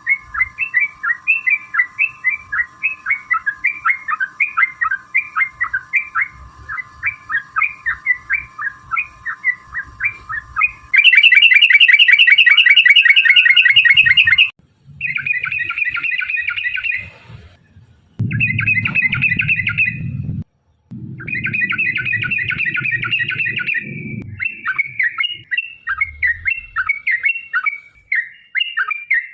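Yellow-vented bulbul (trucuk) singing. It starts with a run of short, bubbly repeated notes, about three a second, then breaks into a loud, fast rattling trill about 11 seconds in. After that come several bursts of rapid chattering with short gaps between them, a long-trill fighting song of the kind used as a lure.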